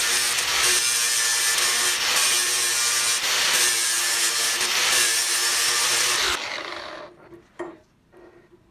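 A power tool grinding metal with a steady abrasive rasp that stops about six seconds in and dies away, followed by a few light taps.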